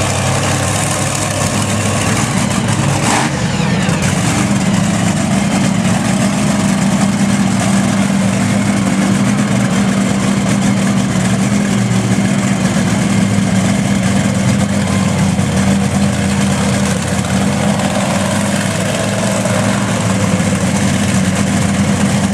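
Monster truck engine running steadily at a low idle, loud and deep, with a single sharp crack about three seconds in.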